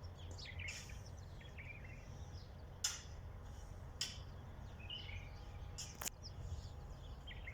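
Small birds chirping, with short scattered calls, and three sharp tick-like notes about three, four and six seconds in, over a steady low rumble.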